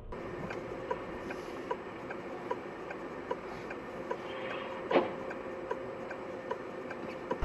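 A car's turn-signal or hazard relay clicking steadily inside the cabin, about two ticks a second, over a faint steady hum, with one louder click about five seconds in.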